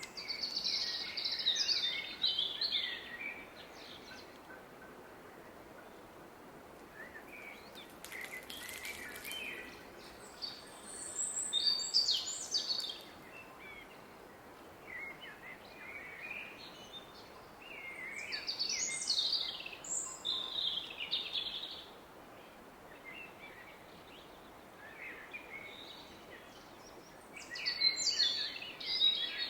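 Songbirds singing in bursts of quick chirping phrases every few seconds, over the steady hiss of a distant river.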